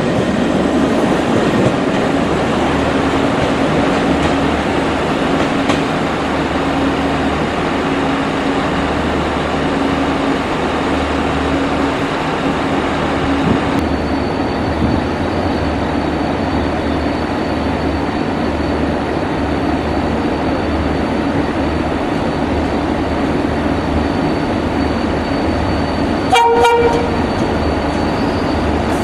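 Rake of Craven coaches rolling past, wheels clattering on the rails. After a cut, a class 071 diesel locomotive runs steadily and gives one short horn toot near the end.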